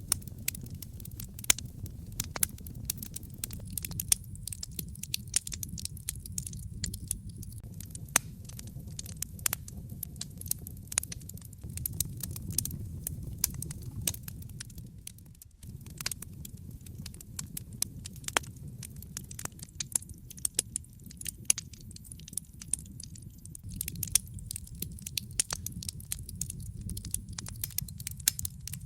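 Wood fire crackling: a dense, irregular run of sharp pops and snaps over a low, steady rumble.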